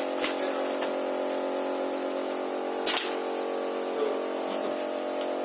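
Cup filling and sealing machine running with a steady hum, broken by two short sharp clicks: one just after the start and a louder, slightly longer one about three seconds in.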